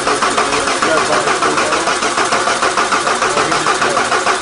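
Diesel engine of a mini tractor puller running with an even, steady pulse of about four to five beats a second.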